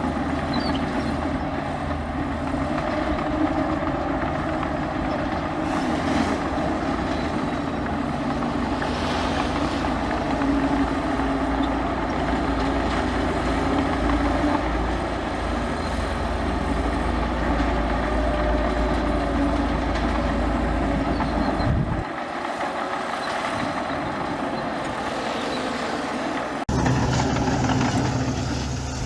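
Heavy diesel earthmoving machinery running steadily with a low rumble. Most of the low rumble drops away about three-quarters of the way through, and the sound changes abruptly near the end.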